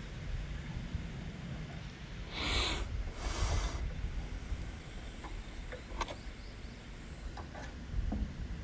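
Two short hissing bursts from an aerosol spray can, each under a second, just after two seconds in, sprayed into the tractor's carburetor. A few faint clicks follow.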